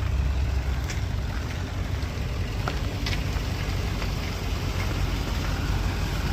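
Pickup truck running, a steady low rumble with a few faint clicks.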